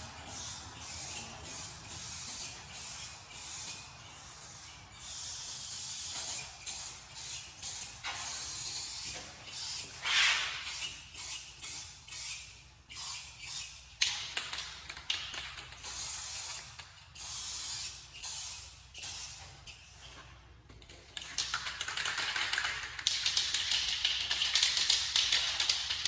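Rust-Oleum aerosol spray-paint can hissing in repeated bursts, some short and some lasting a second or more, as a coat of paint goes on. The spraying turns louder and more continuous about five seconds before the end.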